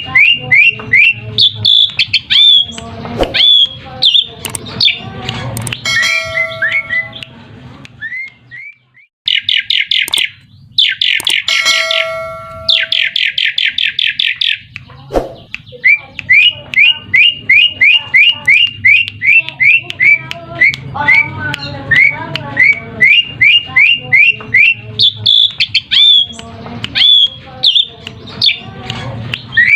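Asian pied starling (jalak suren) singing: long runs of quick, rising whistled notes repeated several times a second, with a burst of fast, dense chattering about a third of the way in.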